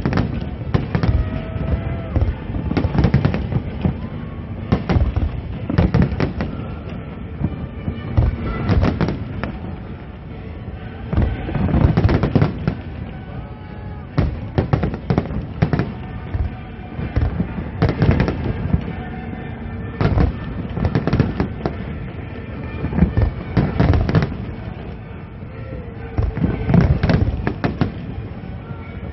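Aerial fireworks display: shells bursting one after another in sharp bangs and crackles, bunching into heavier volleys every few seconds, with faint music and voices beneath.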